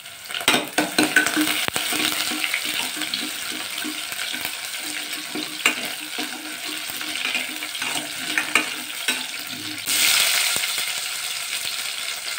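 Crushed garlic and curry leaves sizzling in hot oil in a steel pressure cooker, with a ladle scraping and clinking against the pan as they are stirred. About ten seconds in, the sizzle suddenly grows louder as sliced onions go into the hot oil.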